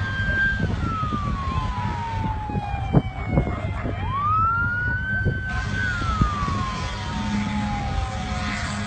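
Emergency vehicle siren wailing: each cycle climbs quickly, holds, then falls slowly over about three seconds, twice over. A loud low rumble with scattered knocks runs underneath.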